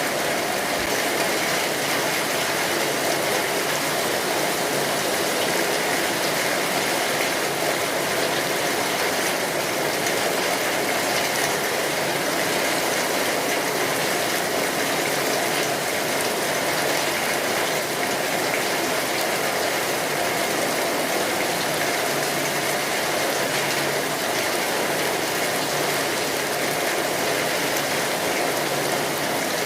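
Steady rainfall, a continuous even hiss with no single drops standing out.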